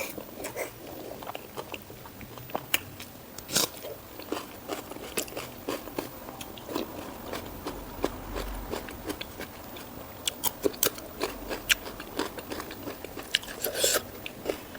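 Close-up chewing and crunching of food, with many short irregular crisp crackles and wet mouth clicks.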